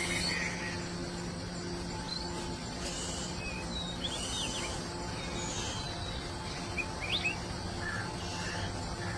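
Short, scattered bird chirps and calls, some rising in pitch, over a steady background hum and outdoor noise.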